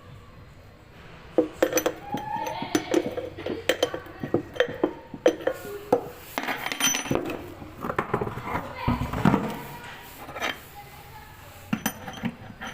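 Irregular metallic clinks and knocks of hand tools on metal parts, with a voice in the background.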